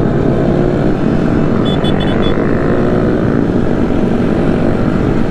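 Rushing wind and the running engines of a group of mini bikes and motorcycles on a street ride, heard from a moving bike. About two seconds in there are four quick, high beeps.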